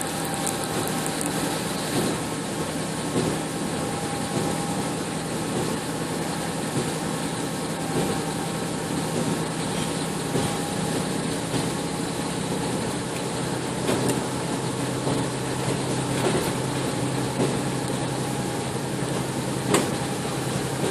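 Steady running noise heard from inside a moving passenger vehicle: a constant low hum and rumble with a few faint steady tones, and occasional brief knocks.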